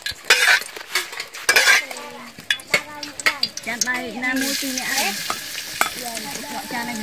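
Metal spatula clicking and scraping against an aluminium wok of hot oil. About four seconds in, minced garlic and chopped chilies go into the oil and start a steady sizzle.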